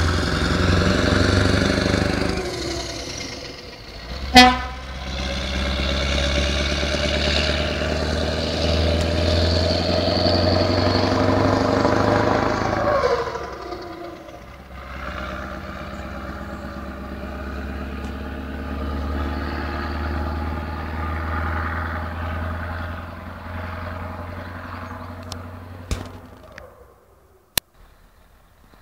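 Scania 144-530 truck's 14-litre V8 diesel running under load, its pitch rising slowly and then dropping about thirteen seconds in, after which it runs quieter and fades away near the end. A brief, very loud blip about four seconds in.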